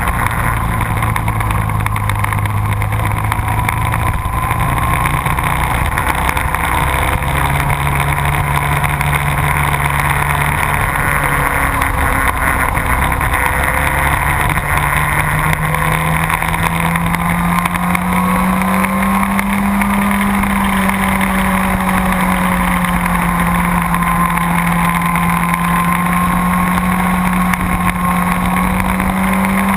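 A motorcycle engine runs hard under way, its note stepping up and down with the revs and then climbing and holding high in the second half, over steady rushing noise.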